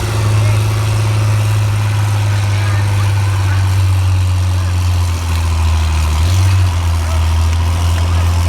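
Tractor engine running with a steady low drone; its pitch steps down slightly about six seconds in.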